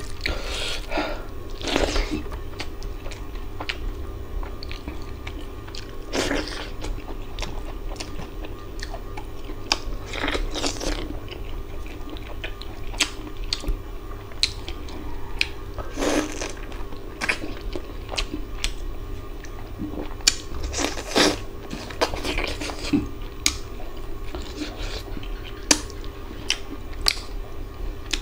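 Close-miked eating sounds: a man chewing a mouthful of rice and mutton curry and working the food on his plate with his fingers, with many small sharp clicks and smacks and a few longer, louder bursts every four or five seconds. A faint steady hum lies underneath.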